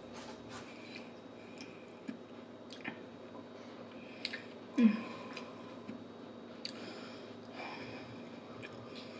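Close-miked chewing of a mouthful of carne asada fries: soft wet mouth sounds and small clicks, with one brief louder voiced sound about five seconds in.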